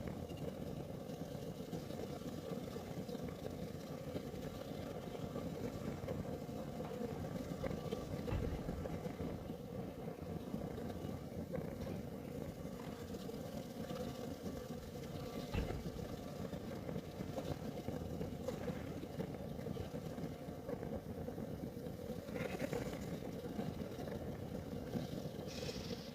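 Kerosene heater burning with a steady low rumble, with a couple of faint ticks and brief hissy flickers of the flame.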